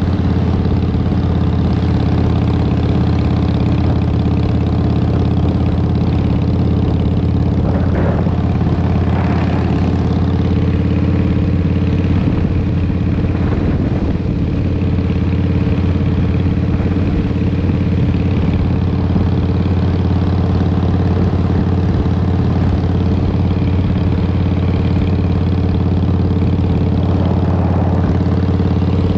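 Harley-Davidson Fat Boy's Twin Cam 88 V-twin running through a Vance & Hines exhaust, its note holding steady at an even engine speed.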